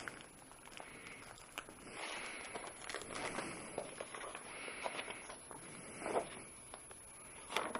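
Faint rustling and scattered small clicks and knocks of parts and packaging being handled.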